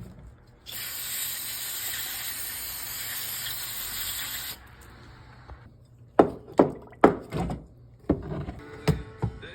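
A steady spray hiss lasting about four seconds while the outboard's carburetors are cleaned out to get the water from the fuel out of them. Then a run of sharp clicks and knocks as the carburetor parts are handled.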